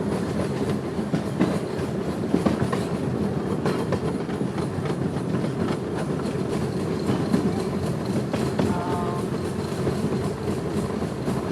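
Miniature park railway train running along the track, heard from aboard a passenger car: a steady rumble with the clickety-clack and scattered knocks of wheels over the rail joints.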